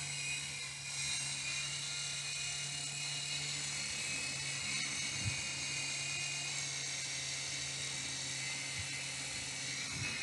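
Toy RC helicopter's small electric motors and rotors running steadily: a high whine over a low hum.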